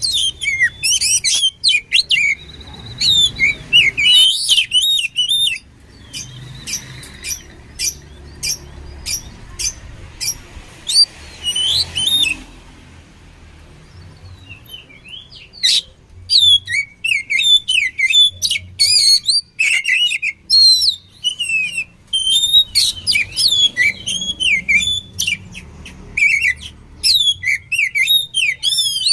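Oriental magpie-robin (kacer) singing a fast, loud run of sharp chirps, clicks and rising and falling whistled notes. It breaks off for about three seconds midway, then starts again.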